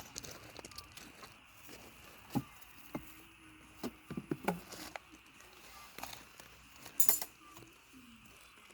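Scattered light clinks and knocks of tableware and utensils being handled, the sharpest about seven seconds in, over a faint steady trill of insects.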